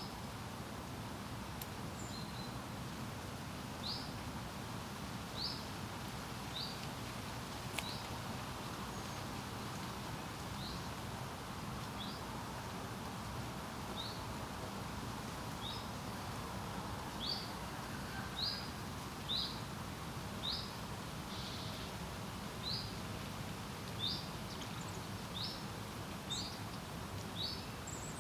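Steady rush of wind over a lake, with a bird repeating a short high chirp, sparse at first and about once a second in the second half.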